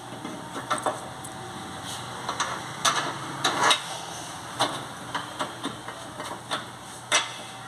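Irregular metallic knocks and clinks of hand tools working on a car's front suspension while a control arm bushing is being replaced, with the loudest knocks about three seconds in and again near the end.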